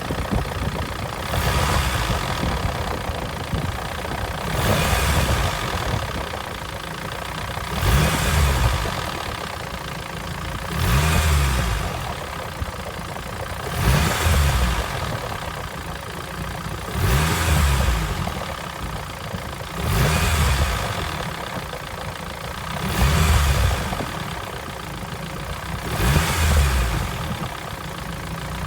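Nissan engine running and being revved in short swells about every three seconds, with the abnormal noise of a worn NVCS variable valve timing unit, a fault that gets louder as it worsens.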